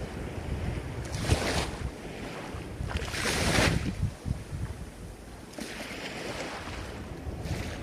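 Ocean surf with waves washing in: four hissing surges, about two seconds apart, over a steady low rumble. The strongest surge comes about three seconds in.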